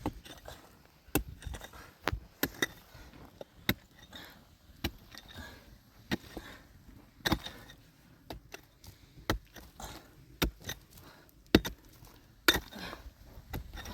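Irregular sharp knocks, roughly one a second, some louder than others, with the loudest near the end.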